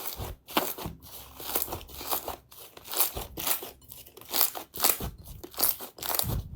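Crunchy slime being squeezed and pressed by hand, crackling and crunching in a quick irregular series of pops, with a few heavier presses.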